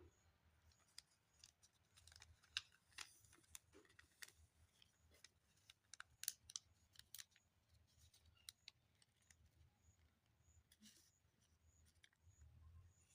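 Faint paper handling at close range: crisp, irregular clicks and crackles of sheets of paper being worked in the hands.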